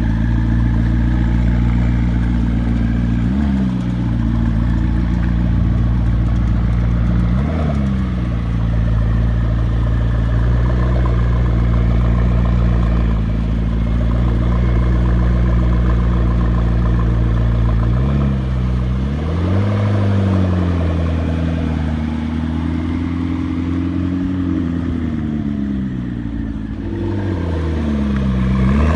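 McLaren MP4-12C's twin-turbocharged V8 running at low speed with a steady low drone, its pitch dipping briefly twice early on. In the second half the revs rise and fall several times.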